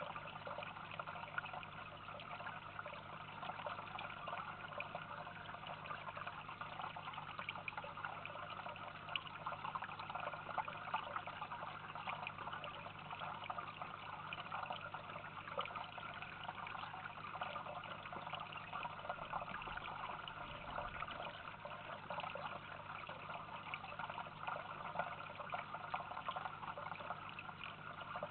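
Steady trickling of running water, even throughout, with a faint low hum beneath it.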